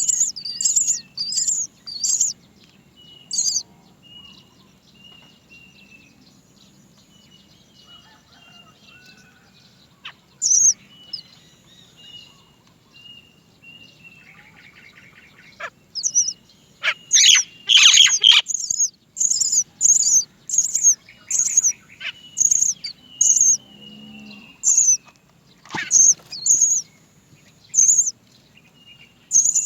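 Great myna chick begging for food: short, high-pitched cries repeated in quick runs of about two or three a second. There is a quieter lull in the middle, and the calling picks up again about halfway through.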